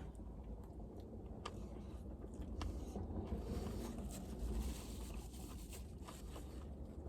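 Faint sounds of someone eating a chicken slider: a few soft clicks and rustles over a steady low rumble.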